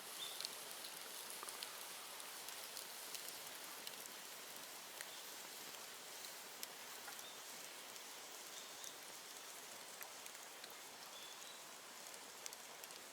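An open fire of cut bamboo burning with a steady hiss and frequent small, irregular crackles and pops.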